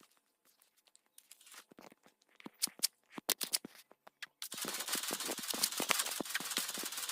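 Handling noise of small clicks and light rustling, then from about four and a half seconds a steady, scratchy rubbing dotted with many small clicks, from hand work such as scrubbing or sanding a small object.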